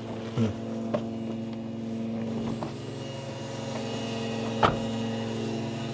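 Steady electric hum of the garbage truck's PTO-driven hydraulic pump motor running, with a few sharp knocks, the loudest about two-thirds of the way through.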